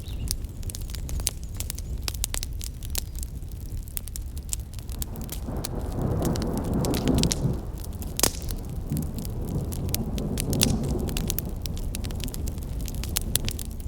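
Wood campfire burning, with dense sharp crackles and pops over a steady low rumble. A low rushing sound swells up and fades twice, about halfway through and again a few seconds later.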